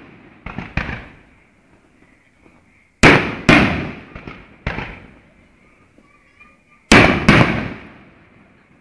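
Fireworks shells bursting: sharp bangs in three clusters a few seconds apart, each bang dying away over about a second.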